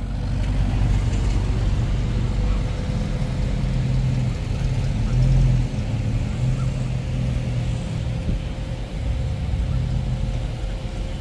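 A car engine running steadily close by, a low even note that swells briefly about five seconds in.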